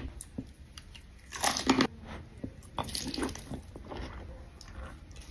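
Close-miked mukbang eating: crunchy bites and wet chewing in irregular bursts, the loudest bite about a second and a half in.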